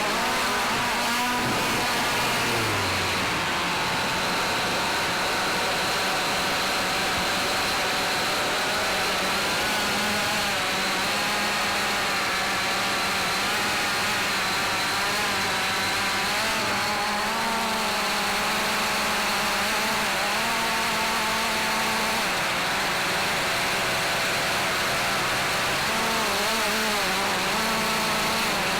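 Cheerson CX-20 quadcopter's electric motors and propellers whining steadily, their pitch wavering up and down as the throttle changes.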